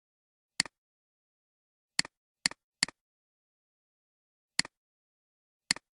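Six short, sharp clicks, each a quick double tick, at uneven intervals: one near the start, three close together around the middle, then two more near the end, with dead silence between.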